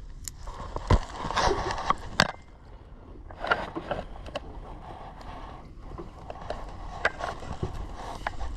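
Sharp knocks and bouts of scraping and clatter from fishing gear and hard objects being handled on a small boat's deck: a loud knock about a second in and another after two seconds, with more scraping and clattering in the middle and near the end.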